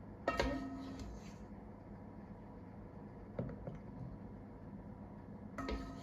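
Kitchenware clinking twice, each strike ringing briefly like a dish or glass jar, with a lighter knock in between.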